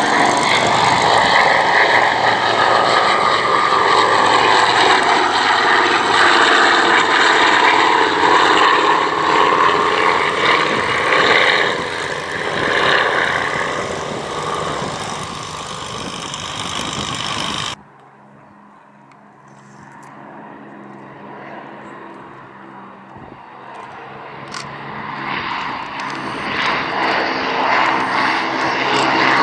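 Propeller aircraft engines running loudly in flight. About 18 seconds in the sound drops abruptly to a quieter, steady engine drone, which grows louder again near the end.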